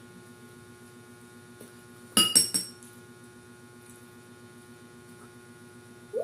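A quick cluster of clinks, a hard object knocking against glass or ceramic tableware, with a brief ringing, about two seconds in. A steady electrical hum runs underneath.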